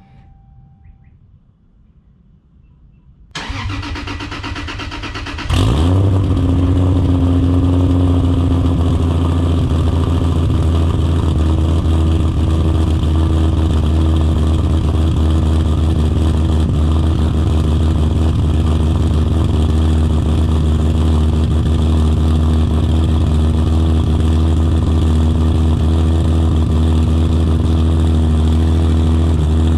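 Toyota Supra straight-six with an HKS titanium exhaust starting: the starter cranks for about two seconds, the engine catches with a brief rev flare, and it settles into a steady, deep idle. The idle eases slightly lower over the first few seconds before holding steady.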